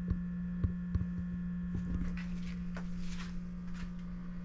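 A steady low hum, with a few light clicks and taps over it.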